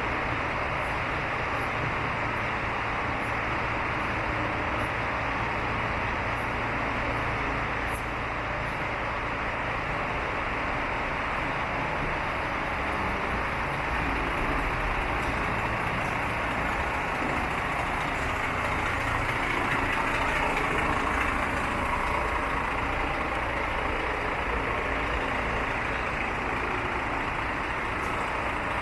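Scania P380 tipper's 380 bhp turbocharged, charge-cooled diesel engine idling steadily, with a slight swell about twenty seconds in.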